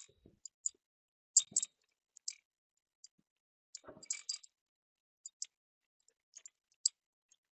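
Scattered light metal clicks and clinks at irregular intervals, from tools and metal parts being handled, with a couple of duller knocks about a second and a half and about four seconds in.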